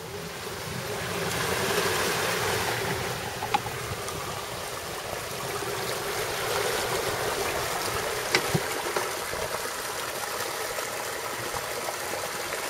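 Floodwater rushing steadily over an overflowing pond spillway after heavy rain; the rushing swells over the first two seconds, then holds. A couple of faint sharp clicks come in the middle.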